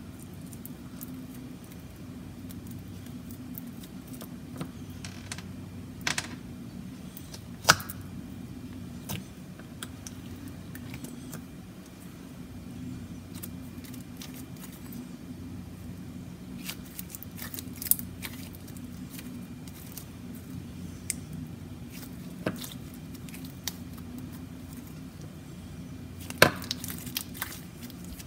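Slime being handled, stretched and squeezed, giving scattered sharp clicks and pops, the loudest about six, eight, eighteen and twenty-six seconds in, over a steady low hum.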